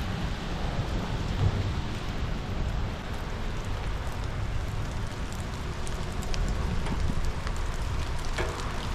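Steady rain falling, with a low rumble underneath and scattered sharp ticks of drops striking nearby surfaces.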